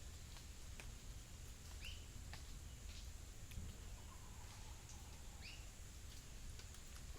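Faint midday ambience of the Colombian plains: a steady high insect drone, with a bird giving two short chirps about three and a half seconds apart and a few small scattered clicks over a low rumble.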